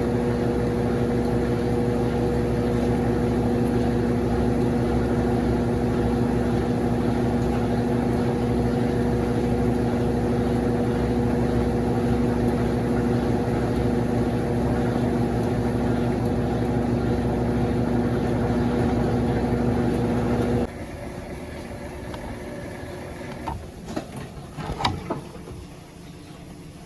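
Consul CWS12 washing machine running with a loud, steady hum, which cuts off abruptly about 21 seconds in. A few clicks and knocks follow near the end.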